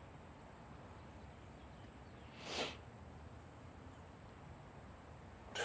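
Quiet room tone with a single short breath about two and a half seconds in. Soft mallet-toned music starts right at the end.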